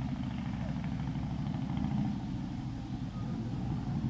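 Suzuki Hayabusa's inline-four engine running steadily on the move, a low engine drone with no change in pitch.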